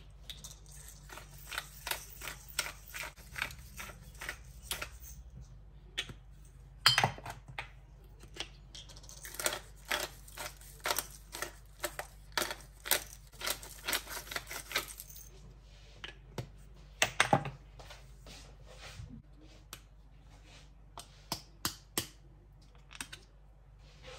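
Irregular series of light clicks and taps, with a louder knock about a third of the way through and another about two-thirds through.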